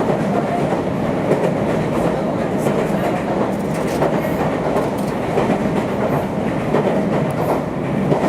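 Meitetsu Nagoya Main Line limited express train running, heard from inside the carriage: a steady rumble of wheels on rail with light, irregular clicks over the track.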